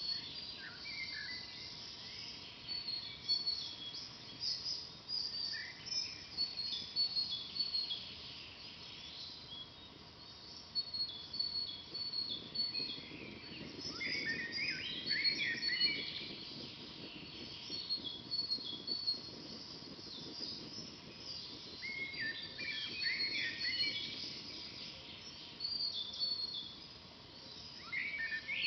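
Forest songbirds chirping and trilling continuously, with busier bursts of song about halfway through and again near the end, over the faint low crackle of a campfire burning logs.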